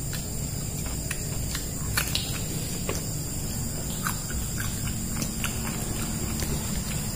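Children chewing and smacking their lips while eating cooked bird meat with their fingers, making scattered small clicks, over a steady low hum and a thin high steady tone.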